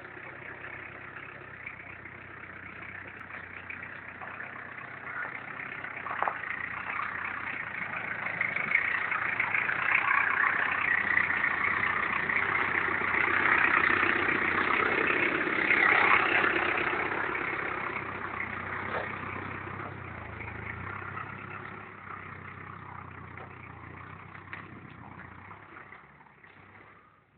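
Classic Range Rover engine running as the vehicle drives through mud, growing louder as it comes close about halfway through and fading as it drives away near the end.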